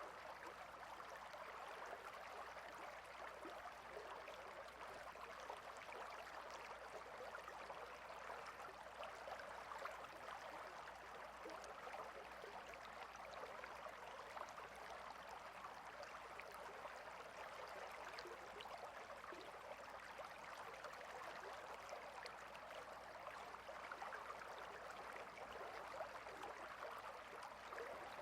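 Water stream flowing steadily, a faint even babble.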